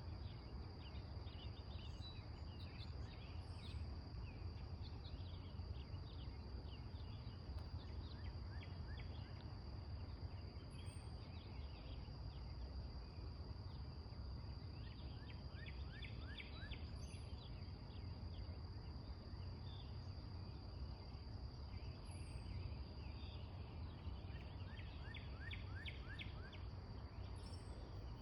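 Outdoor ambience: a steady high-pitched insect drone and a low rumble, with birds calling now and then in quick runs of chirps, twice swelling into longer trills.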